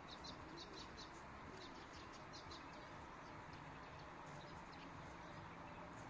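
Small birds chirping faintly, short high chirps several to a second that thin out about halfway through, over a steady low background hum.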